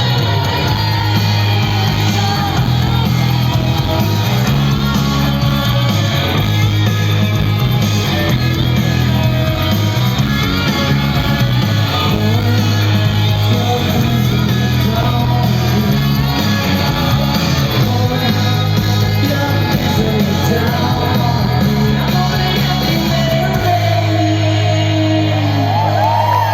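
Live rock band with guitars, bass and drums playing loudly, and a woman singing over it. Near the end the bass settles into one held low note as the song closes.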